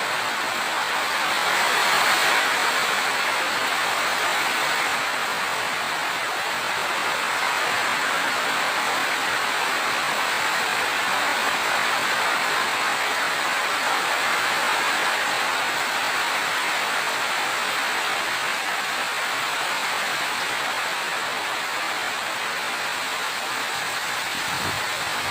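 Steady rainfall, a dense even hiss with small swells and no distinct drops or thunder.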